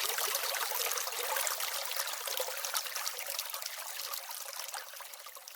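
Small brook babbling and trickling, full of quick little splashes, fading out steadily.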